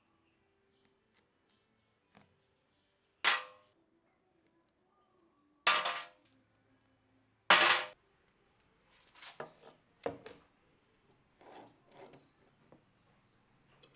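Metal tools and parts being handled: three loud clanks about two seconds apart, each with a short metallic ring, then a run of lighter clinks and knocks.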